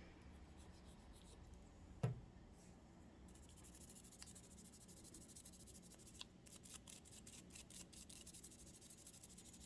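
Old toothbrush scrubbing sticky oil off a sewing machine part: faint rapid brushing strokes starting about three seconds in, after a single knock about two seconds in.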